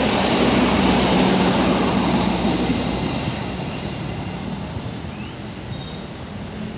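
Passenger train coaches rolling along the rails in a steady rumble that fades from about two seconds in as the rear of the train draws away.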